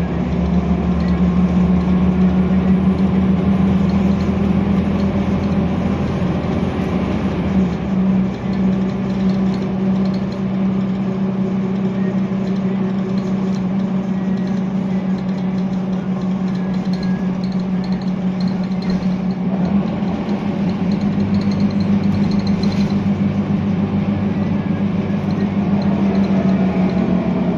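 Scania L94UB bus engine running on the move: a steady drone whose low note shifts about 8 seconds in and again about 20 seconds in, as the engine speed or load changes.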